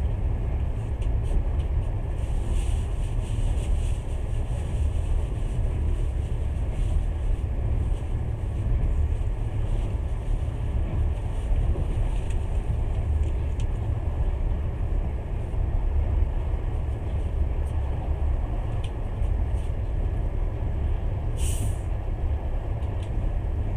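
Passenger train carriage running along the track, a steady low rumble heard from inside the carriage. A short sharp hiss cuts in near the end.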